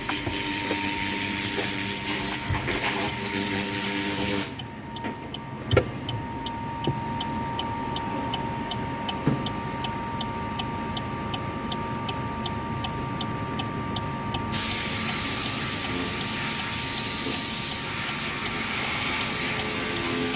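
Automatic car wash tunnel: water spray hissing against the car, then dropping away for about ten seconds, during which a steady regular ticking about twice a second and a low hum are heard, before the spray hiss starts again.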